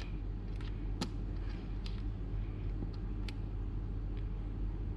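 Steady low hum with a few light clicks and taps as the thermometer probe is handled against the solder gun's tip.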